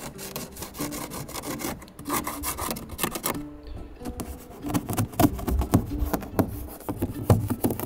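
Irregular scraping and rubbing: many short, scratchy strokes, growing denser and louder in the second half.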